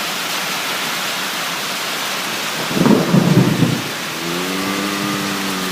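Thunderstorm: a steady hiss of rain and weather noise, with a short, loud low rumble of thunder about three seconds in. Near the end a steady low hum-like tone comes in.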